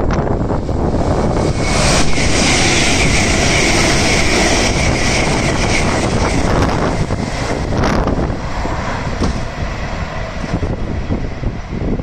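ScotRail electric multiple-unit train running through a station platform. The rush of its wheels and air swells about two seconds in and carries a steady high whine, then fades over the last few seconds. Wind buffets the microphone throughout.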